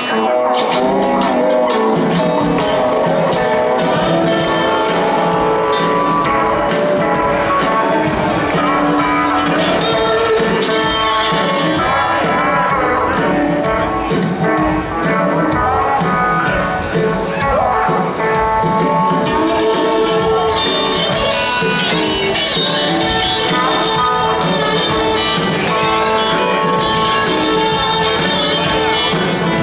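Live rock band playing an upbeat blues-rock song: guitars, bass and drums keeping a steady beat, recorded from the audience in a theater.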